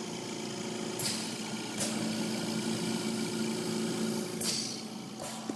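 A steady mechanical hum, with short bursts of hiss about a second in, just before two seconds, and twice near the end.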